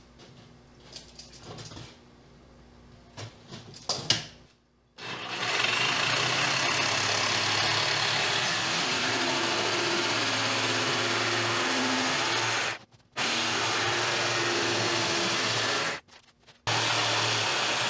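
Electric power saw cutting strips from a sheet of Gurit H80 foam core. After a few light handling knocks, the motor whines up about five seconds in and runs steadily, stopping briefly twice before starting again.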